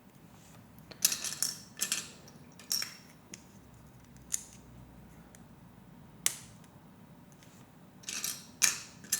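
Plastic Lego Technic pieces clicking and clattering as they are handled: a run of sharp clicks about a second in, single clicks around four and six seconds, and another cluster near the end.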